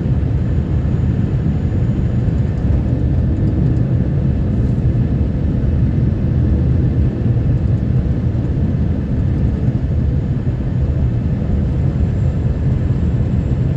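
Snowplow truck driving along a snowy road, a steady low rumble of engine and road noise.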